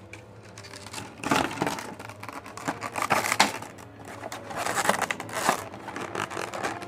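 Plastic and cardboard packaging of a Funko Pop! figure crinkling and rustling as it is handled, in three bursts of crackling, with faint background music underneath.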